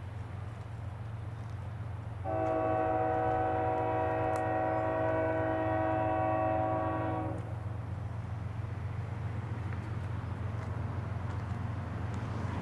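Freight diesel locomotive's air horn sounding one long chord of about five seconds, a couple of seconds in, over the steady low rumble of the passing train.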